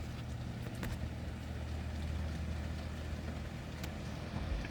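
Distant thunder rolling as a low, steady rumble that swells in the middle and again near the end, over a light hiss of rain.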